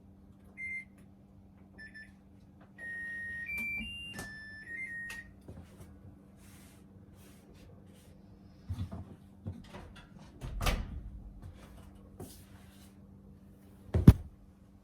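Electronic beeps from a household appliance's control panel: two short beeps, then a short run of tones at changing pitches like a button jingle, over a steady hum. Then scattered clicks and knocks, with one sharp knock near the end.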